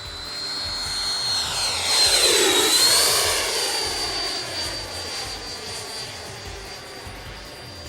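Electric ducted fan of a 90mm RC F-16 jet (Freewing fan and motor) making a low pass: a steady high-pitched whine swells to its loudest about two to three seconds in as the jet goes by, then fades as it moves away.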